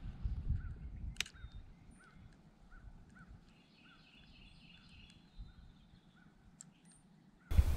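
Faint bird calls, a short note repeated about every half second with a brief higher trill in the middle, over a low rumble of wind noise that dies down early on. A sharp click sounds about a second in, and a loud low rumble cuts in suddenly near the end.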